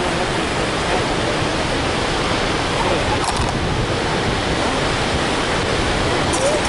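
Steady rush of Colorado River floodwater pouring through and below Mansfield Dam, heard from above.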